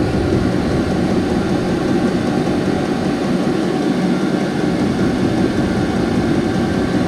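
Vevor 12 V 5 kW diesel air heater lit and running steadily, its burner and blower fan making an even, unbroken rushing hum as it blows hot air.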